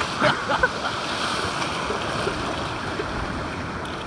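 Ocean surf washing steadily, with wind on the microphone; a few brief sharp sounds in the first second.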